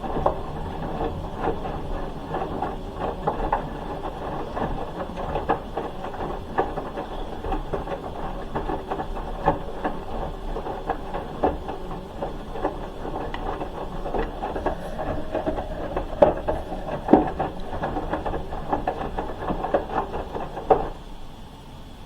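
Hoover H-Wash 300 Plus washing machine in its wash phase: the drum turns and the wet load tumbles with frequent irregular knocks, then the drum stops suddenly near the end.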